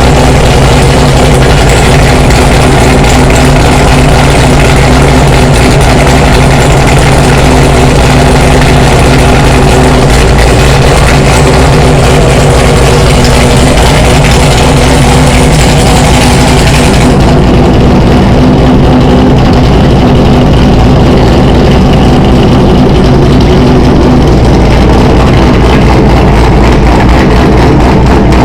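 Chevrolet C7 Corvette V8 idling steadily after a cold start, loud and close. About halfway through, the high hiss over the engine note drops away while the idle carries on.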